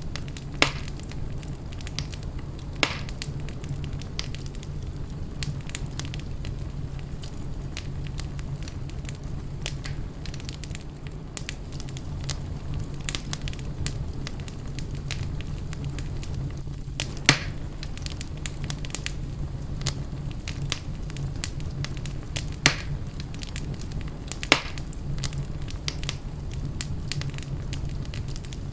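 Wood fire burning in a fireplace: a steady low rumble under constant fine crackling, with a handful of sharper pops scattered through.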